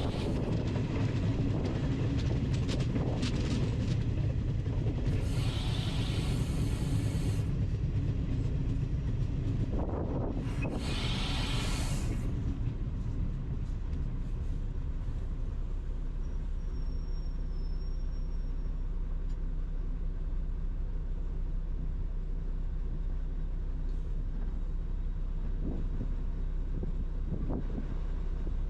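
Train running with a heavy low rumble, broken by two bursts of hiss about five and ten seconds in; after about twelve seconds it settles to a quieter, steady hum.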